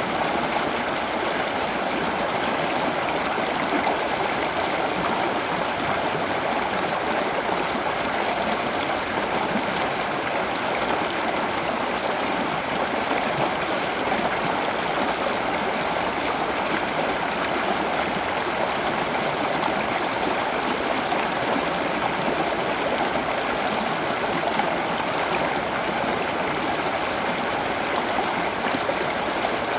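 Running water: a steady, even rush of flowing water that does not change.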